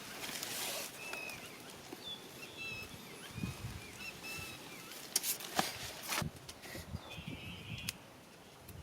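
Outdoor ambience with short bird chirps and a few sharp snaps or clicks, like twigs or handling noise.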